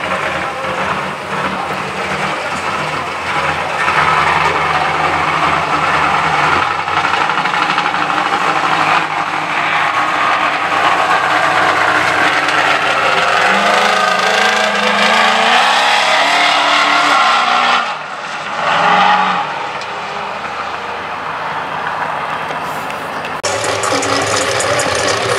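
Drag car's engine at full throttle on a pass down the strip, loud and steady, with its pitch climbing for several seconds. It cuts off suddenly past the middle, gives one short blip, then runs quieter. Another engine comes in louder near the end.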